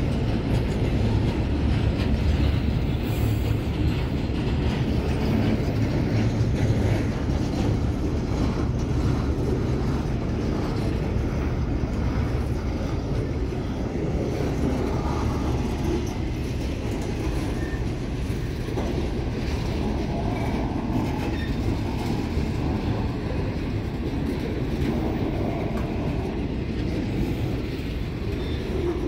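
Flatcars of a Union Pacific rail train, loaded with long lengths of rail, rolling past: a steady low rumble of steel wheels on track.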